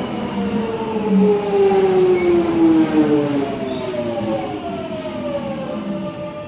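Alstom 1996 Tube Stock train's traction motors whining down in pitch together as the train brakes, easing off toward the end.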